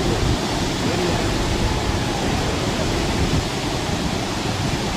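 Heavy rain falling in a steady, loud downpour, an even hiss with no breaks.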